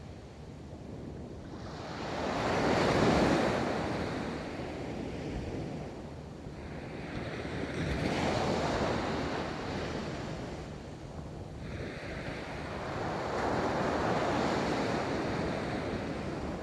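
Ocean surf rolling onto a beach: three waves in turn, each a rush of noise that builds and fades over a few seconds, about every five to six seconds.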